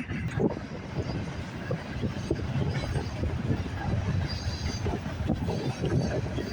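Long freight train rolling past: a steady rumble of cars going by, with a rapid, irregular clatter of wheels over rail joints and a faint high wheel squeal about four seconds in.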